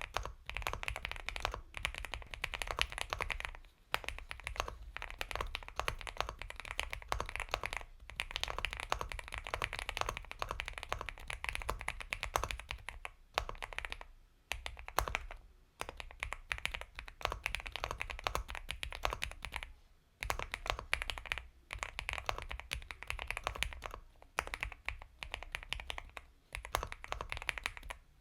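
Fast, continuous typing on an Epomaker x Feker Galaxy 80 mechanical keyboard with Gateron Milky Yellow Pro linear switches: soft, creamy keystrokes in bursts of several seconds with short pauses between them.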